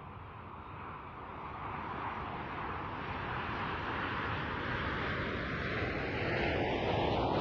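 Aermacchi MB-339 jet's turbojet engine, a steady noise growing louder as the aircraft approaches, with a sweep in its tone that rises over the last few seconds.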